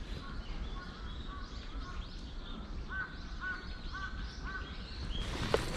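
A bird calling over and over at a distance, short arched notes about two a second. A brief rustle and click near the end.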